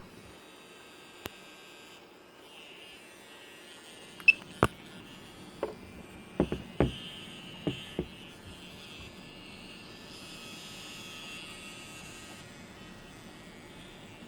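DJI Mavic Pro remote controller's internal cooling fan running with a steady faint whirr and thin high whine: the strange fan noise of a defective controller. A short beep and several sharp clicks or knocks come between about four and eight seconds in.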